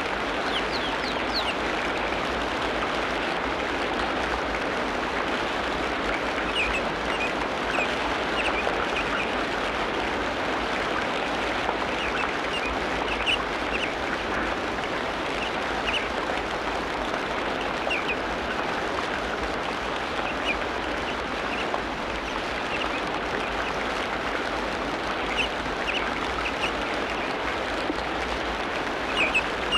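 Tropical rainforest ambience: a steady dense wash of sound with short high bird chirps scattered through it.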